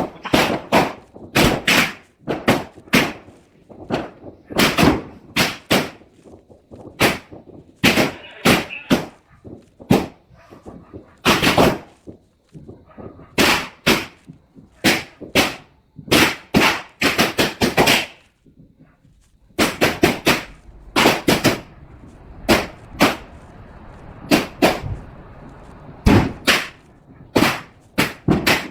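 Fireworks going off: a long, irregular series of sharp bangs, several a second at times, some in quick clusters with short echoes after them.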